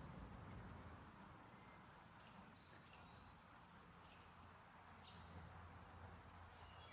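Near silence with faint, steady high chirring of crickets, a few fainter short chirps over it.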